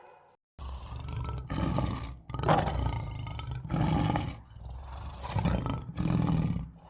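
A large animal giving a string of roars, each about a second long, one after another.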